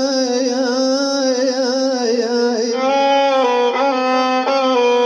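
Iraqi mawwal singing: a male voice holds a long wavering note with vibrato. About halfway through, an instrumental phrase of stepped notes answers it.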